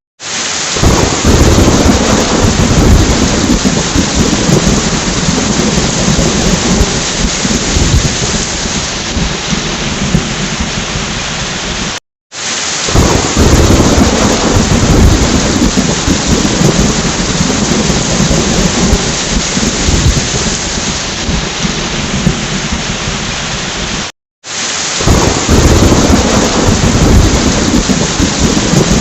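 Heavy rain with rolling thunder. The storm drops to silence for a split second about every twelve seconds, and the deep thunder rumble swells again just after each gap.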